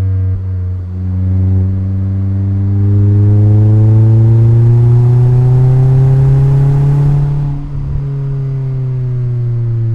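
Mazda MX-5's four-cylinder engine and exhaust accelerating: the engine note climbs steadily in pitch for several seconds, growing louder partway through, then drops suddenly near the end and runs on steadily at a lower pitch.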